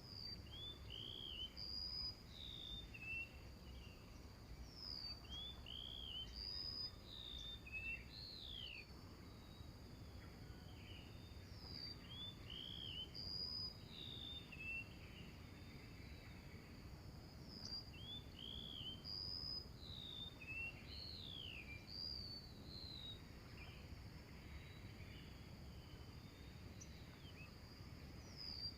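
Small birds calling in short arched and falling chirps, a similar run of phrases coming back about every six seconds, over a steady high insect drone.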